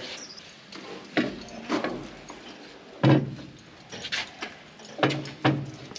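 Scattered metal clanks and knocks, some with a short ring, as tools and steel parts are handled on a combine's feederhouse.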